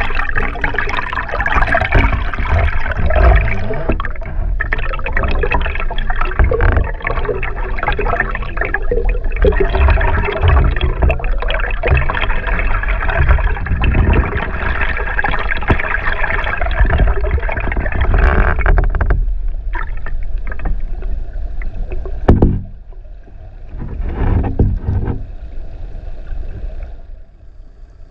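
Rushing river water and bubbling, picked up by a GoPro in its waterproof case, with a deep rumble and many small knocks and clicks. About two-thirds of the way through it turns quieter, with a couple of brief surges after that.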